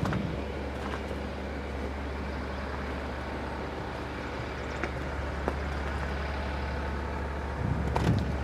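John Deere 5065E tractor's three-cylinder turbo diesel idling steadily, with a few knocks and clicks near the end.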